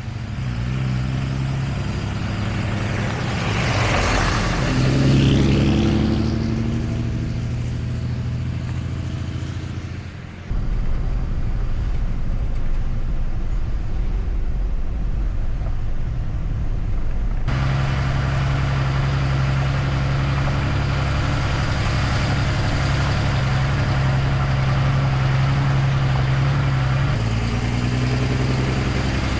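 Truck engine running as the truck drives, a steady low drone that rises in pitch for a moment around four to six seconds in. The sound changes abruptly twice, once about ten seconds in and once about seventeen seconds in.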